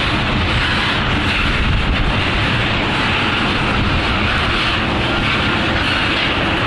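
Tank cars of a freight oil train rolling past close by: loud, steady noise of steel wheels running on the rails.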